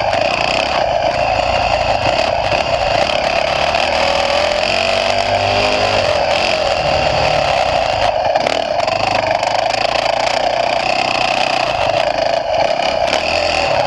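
Motocross dirt bike engine running continuously under throttle while riding, the revs rising and falling, heard through a bike- or rider-mounted GoPro.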